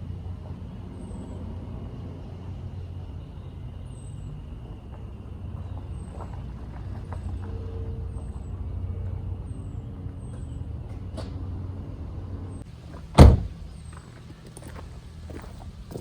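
A car running with a steady low rumble, which drops away a little before a single loud thud of a car door shutting about thirteen seconds in.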